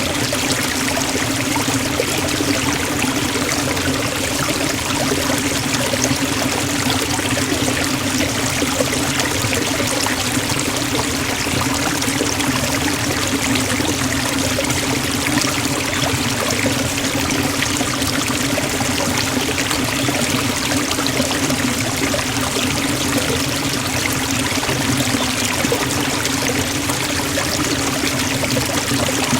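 Waterfall splashing and rushing steadily into a forest pool, an even noise of falling water without pause.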